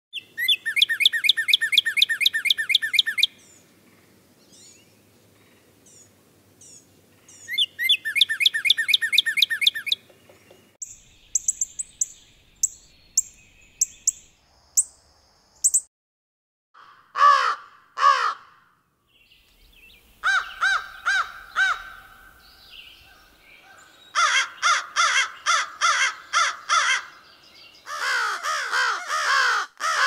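A sequence of bird calls: two bouts of fast trilled notes, then high thin notes and scattered calls, then series of repeated calls, ending near the end with an American crow's harsh repeated caws.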